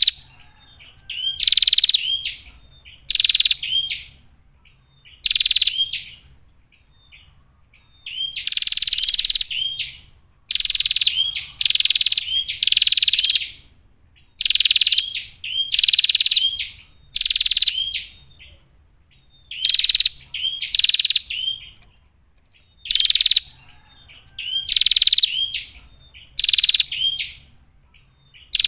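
Female prinia (prenjak) calling: a string of short calls, one every second or two, some held for a second or more.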